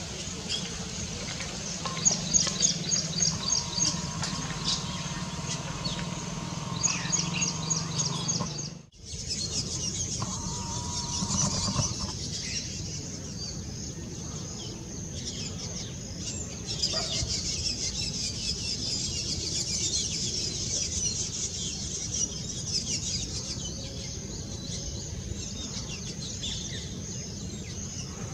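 Birds calling: bursts of rapid, high-pitched chirping notes, with a short break about nine seconds in.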